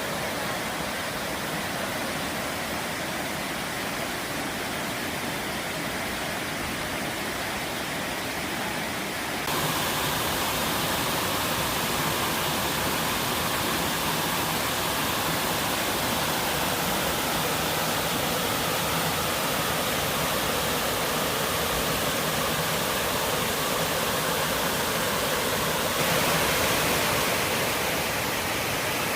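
A waterfall: falling water pouring in a steady, dense rush. It jumps abruptly louder and brighter about a third of the way in, and shifts again near the end.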